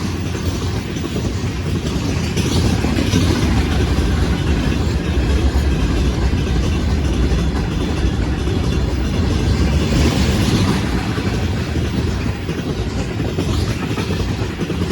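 Freight train hauled by a 2ES4K electric locomotive rolling past, with a steady, heavy rumble of wheels and wagons on the rails.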